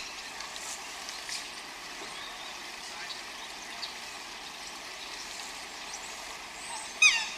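Steady hiss like a running stream, with faint scattered chirps; about seven seconds in, a loud animal call with a falling pitch.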